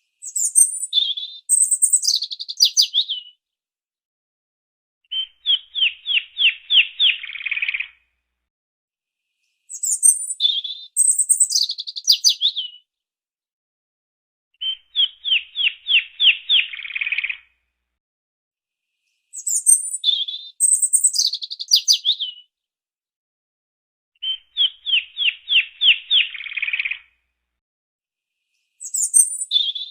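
Small bird singing: a phrase of high, falling chirps followed by a rapid trill of short notes, repeated identically three times at even spacing of about nine and a half seconds.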